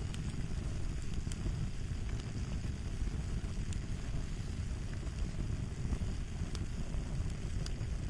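Crackling fire ambience: a steady low rumble of burning with scattered sharp pops and crackles over it.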